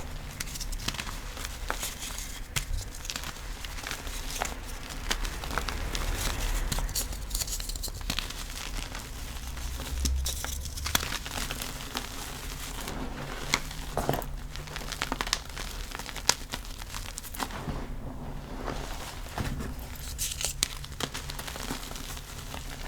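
Gym chalk blocks being crushed and crumbled, with a dense run of crisp crackles and crunches.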